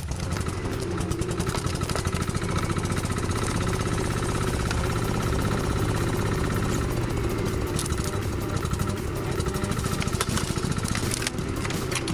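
A vehicle engine running steadily at a fairly even pitch.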